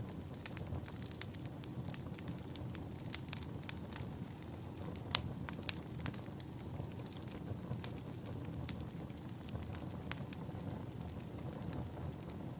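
Wood fire in a fireplace crackling: irregular sharp pops and snaps over a low steady rumble, one pop louder than the rest about five seconds in.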